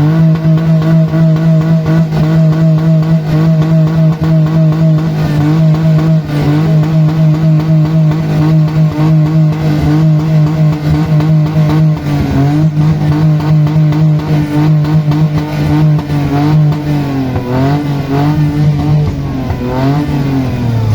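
Car engine revved up and held at high rpm, a loud steady drone for about twenty seconds that wavers a few times near the end as the throttle is worked, before dropping back.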